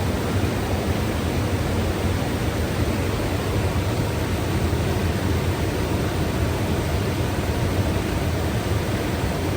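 Mountain river flowing and rushing, a steady, even roar of water with no break.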